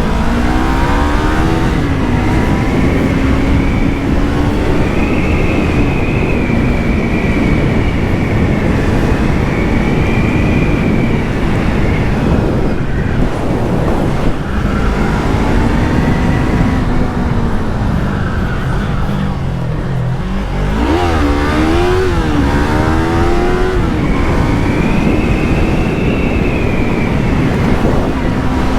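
Yamaha MT-03 motorcycle engine with its stock exhaust, revving hard up through the gears. Its pitch climbs and drops again at each gear change. About twenty seconds in the pitch dips low, then rises and falls quickly a few times.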